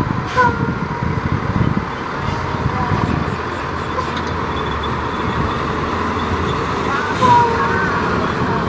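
A vehicle engine running steadily, with a continuous low rumble.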